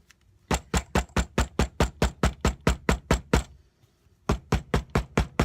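A hammer striking quickly and evenly, about seven blows a second, pounding a morning glory leaf through a paper towel to press its sap out onto paper. The blows come in two runs with a short pause about three and a half seconds in.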